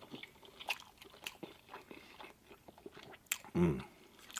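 A person chewing a mouthful of baked mac and cheese close to the microphone, with scattered wet mouth clicks and smacks. About three and a half seconds in comes a brief low hum of approval with a falling pitch.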